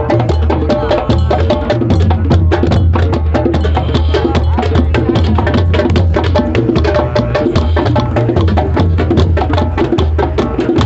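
Drum circle: many hand drums played together in a dense, steady rhythm of quick strikes over strong low drum tones.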